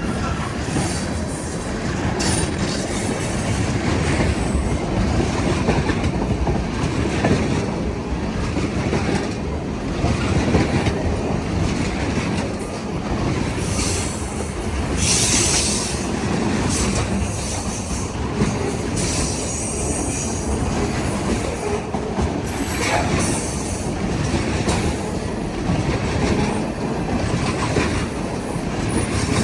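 Freight cars of a long BNSF manifest train rolling past, wheels rumbling and clattering over the rails, with high-pitched wheel squeal rising about halfway through.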